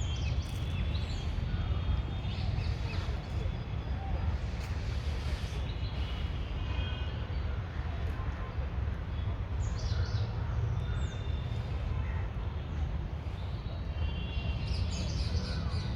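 Birds chirping in short, high, downward-sweeping calls, a few at a time in scattered clusters, over a steady low rumble.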